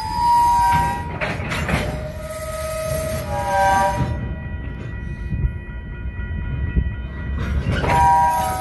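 Tank cars of a slow-moving freight train squealing: several high, steady metal-on-metal tones that shift in pitch and fade in and out over a low rumble. Knocks sound about a second in and again near the end.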